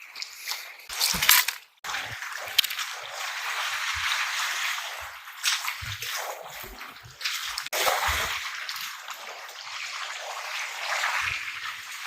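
Sea water sloshing and splashing over shore rocks as waves wash in and drain away, swelling and fading in surges every second or two.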